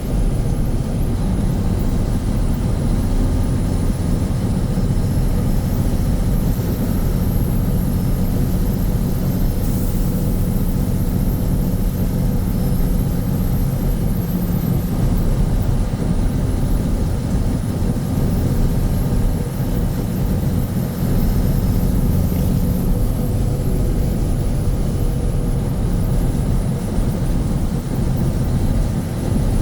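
Mack RS700L truck's turbocharged diesel engine running steadily under way, with a faint high turbo whistle that climbs a few seconds in, drops back about halfway through and rises again near the end.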